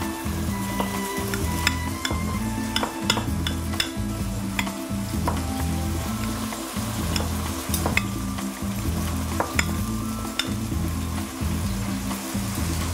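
Metal spoon stirring and mashing a soft potato mixture in a ceramic bowl, with frequent sharp clinks and scrapes against the bowl, some ringing briefly. Background music with a steady low bass line plays underneath.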